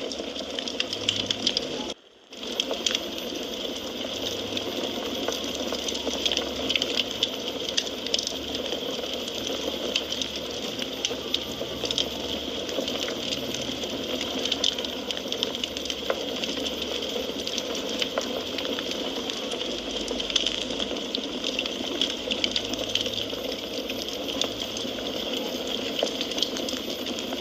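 Wood fire crackling steadily, a dense hiss of burning with many small sharp pops and snaps. The sound drops out for a moment about two seconds in, then carries on as before.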